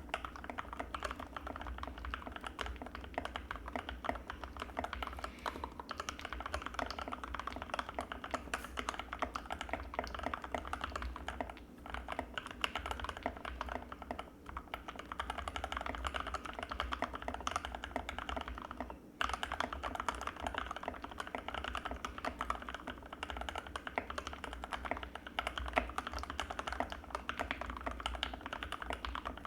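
Fast continuous typing on an Anne Pro 2 mechanical keyboard with Gateron Red linear switches: dense key clicks, with brief pauses about 12, 14 and 19 seconds in.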